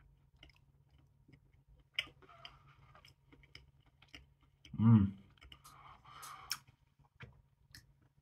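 Chewing toast spread with crunchy peanut butter: soft wet mouth clicks and small crunches, with a short hum from the eater about five seconds in.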